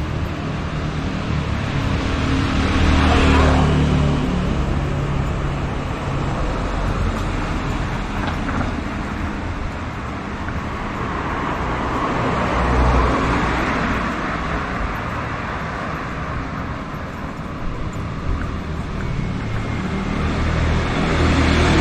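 Street traffic: cars and other vehicles passing steadily, with the noise swelling and fading as they go by.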